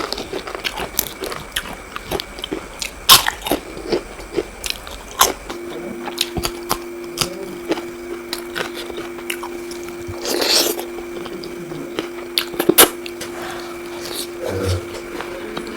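Close-up chewing and biting of crisp fried puri, with many sharp, irregular crunches. A steady low hum comes in about five seconds in.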